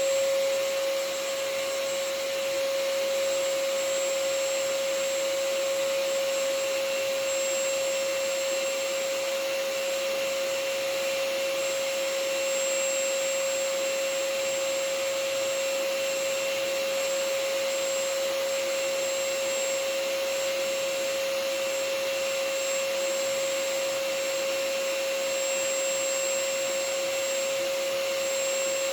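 Vacuum cleaner running steadily as white noise for a sleeping baby: a continuous even rush of air with a steady mid-pitched whine, unchanging throughout.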